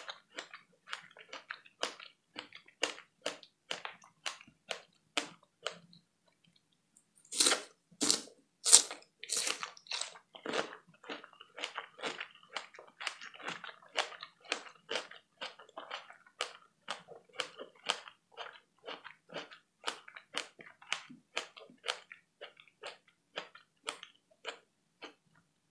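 Close-miked chewing of fresh strawberries: wet clicking mouth sounds about two a second, with a short pause and then a few much louder wet strokes about a third of the way in.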